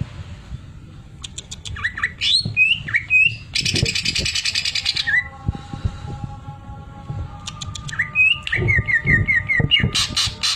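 Green leafbird (cucak ijo) singing in bursts. It gives clicks and short whistled notes, then about four seconds in a dense, rapid rattling buzz like a sewing machine, the mimicked 'sewing machine' phrase. Near the end comes a quick run of about half a dozen repeated whistled notes.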